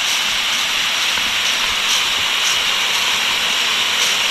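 Steady rushing water with a strong high hiss and no change in level.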